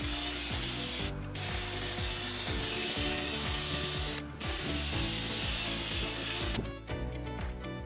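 Fine 2000-grit sandpaper rubbed in strokes over a car's painted quarter panel to knock down small imperfections, a scratchy hiss that breaks off briefly twice and stops about six and a half seconds in, with background music underneath.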